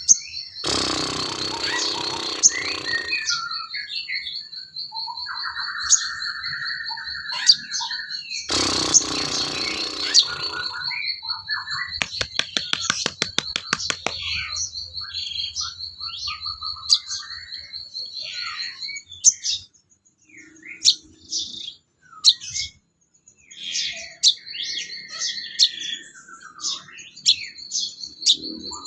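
Songbirds chirping and whistling in a bird-song training recording made for the sogon bird, with many short calls. A steady, high, fast trill runs under the calls and stops about two-thirds of the way through, and there are two brief bursts of rushing noise early on and about a third of the way in.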